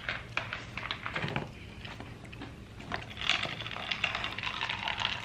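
Close-up eating sounds of crispy fried chicken being bitten and chewed: scattered crunches, then a dense run of crackly crunching from about three seconds in.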